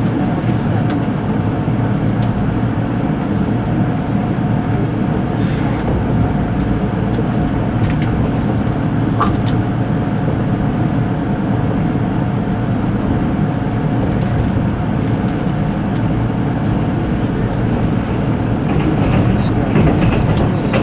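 Steady running noise of a 485-series limited express train, heard from inside the passenger cabin: a continuous low rumble of wheels on rail, with a few short clicks now and then.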